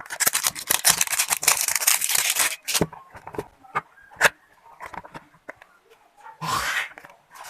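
Product packaging being torn open and crinkled for about two and a half seconds, followed by scattered handling clicks and knocks, and a short rough burst of noise near the end.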